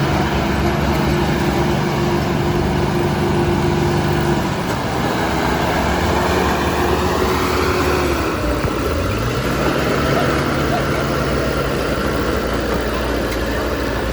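Heavy machine's diesel engine running steadily. Its pitch dips about halfway through and picks up again a second or so later.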